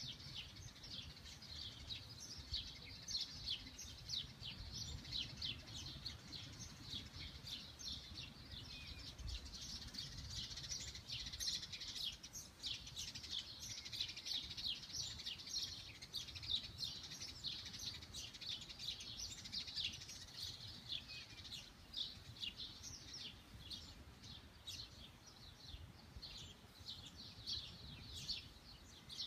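Small birds chirping continuously, many quick high chirps overlapping, over a faint low background rumble.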